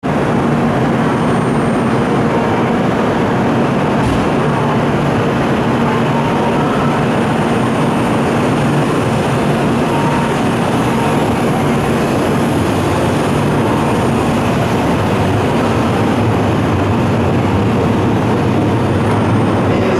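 Steady hum and hiss of an E7 series Shinkansen standing at the platform with its on-board equipment running.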